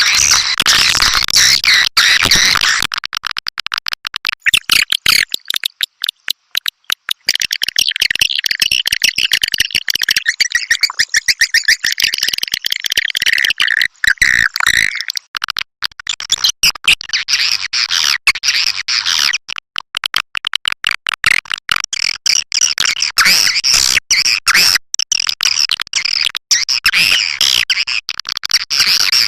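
Swiftlet call recording of the kind played to lure swiftlets into a nesting house: loud, dense chattering twitters and rapid clicks. A few seconds in it thins to sparser clicking before the twittering thickens again.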